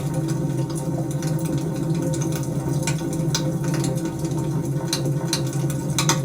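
Wood fire in a fireplace crackling: irregular sharp pops and snaps, several a few seconds apart, over a steady low rumble.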